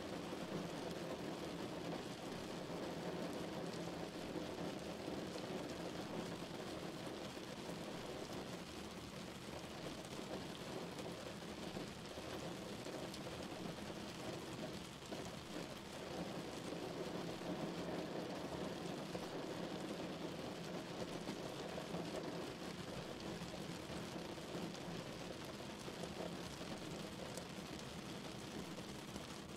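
Steady rain falling, an even, unbroken wash of sound at a constant level.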